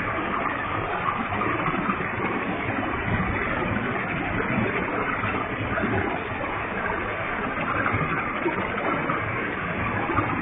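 Waterfall with a heavy flow: falling water splashing in a steady, even rush.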